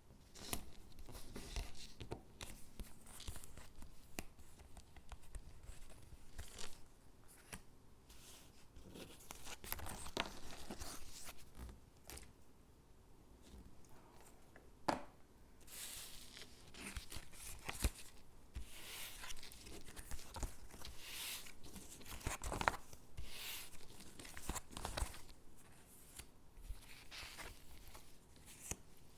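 Stickers peeled off their backing sheet and pressed onto paper gingerbread cutouts: a run of short peeling rips and paper rustles, with a few sharp taps.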